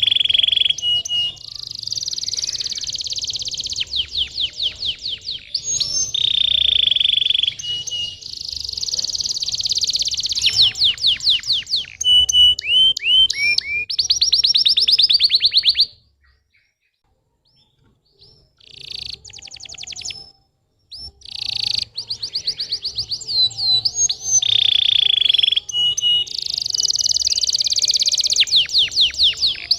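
Domestic canary singing a long song of rolling trills and rapid repeated notes, broken by a silence of about two seconds past the middle. It is a lure song of the kind played to stimulate young canaries to sing.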